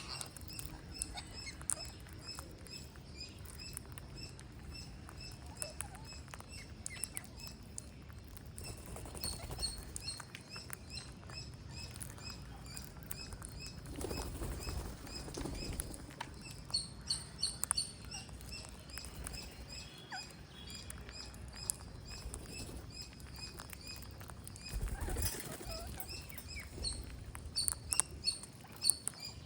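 Green parrots chirping: a steady stream of short, high calls, with scattered clicks and rustling.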